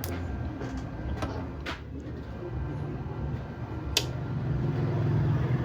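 A few sharp clicks and taps of small tools on a phone circuit board, the loudest about four seconds in, over a steady low background rumble.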